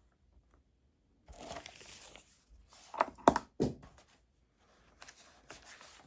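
Paper rustling and crinkling as study materials are handled at a desk, with three sharp knocks in quick succession about three seconds in.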